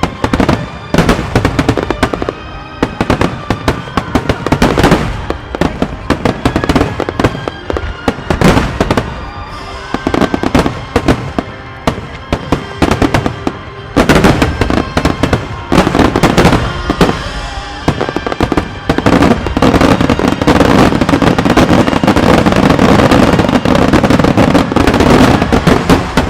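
Aerial firework shells bursting in rapid succession with sharp bangs, and music playing underneath. From about 19 seconds in, the bursts run together into a continuous barrage.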